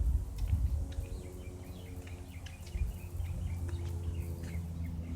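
Faint, steady drone of a Cessna single-engine propeller plane flying overhead, its hum growing stronger about three seconds in, while small birds chirp.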